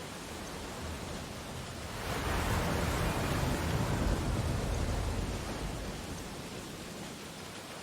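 Ocean waves: the steady wash of surf, with one wave swelling about two seconds in, breaking and washing out by about six seconds in.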